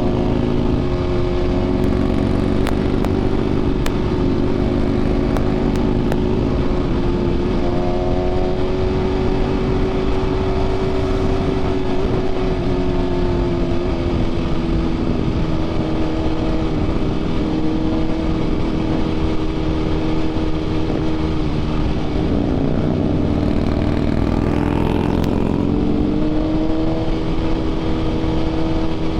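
BMW S 1000 RR inline-four sport bike engine running at a steady cruising speed, heard from the rider's position with heavy wind rush on the microphone. The engine pitch dips a little about three quarters of the way through and then picks up again.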